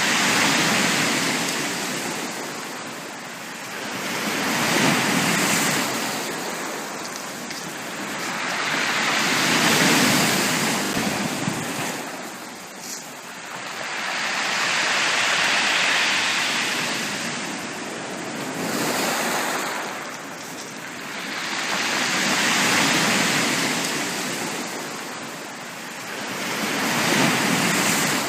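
Ocean waves breaking on a beach, each swell of surf rising and falling away roughly every five seconds.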